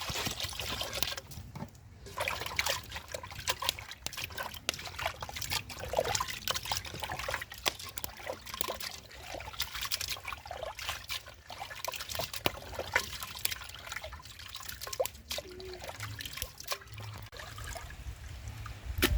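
Water trickling and dripping, with many irregular sharp drip ticks throughout.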